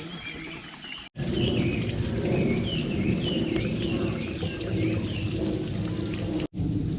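Outdoor ambience: a bird chirping a short repeated call, about two or three a second, over a steady low rumble and a thin steady high-pitched tone. The sound drops out for an instant about a second in and again near the end.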